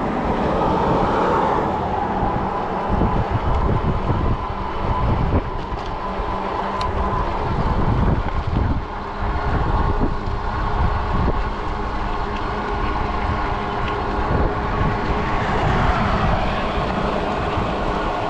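Riding noise from a 20-inch folding fat-tire e-bike at speed: wind buffeting the microphone and tyre rumble on pavement, over a steady whine from the electric hub motor.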